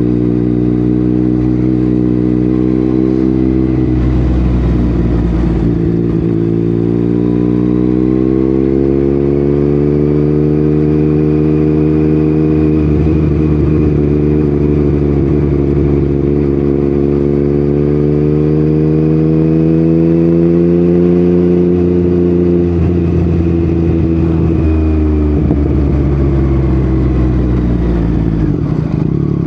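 Yamaha MT-09's inline-three engine running through an Akrapovic exhaust on the move. The engine note climbs slowly over several seconds, holds steady, then drops back about two-thirds of the way through, with brief breaks in the note near the start and again later.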